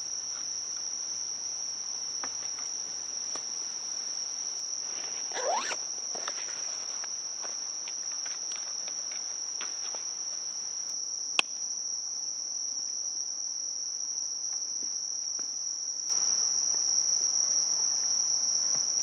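A steady, high-pitched chorus of crickets, unbroken throughout. Over it come light handling clicks and rustles of gear being packed away, including a sharp click about eleven seconds in and louder rustling near the end.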